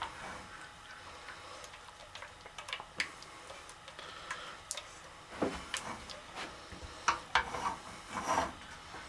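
A spoon stirring peanut butter into mole sauce in a pot, making irregular taps and clicks against the pot, with longer scrapes about five and a half seconds in and again near eight seconds.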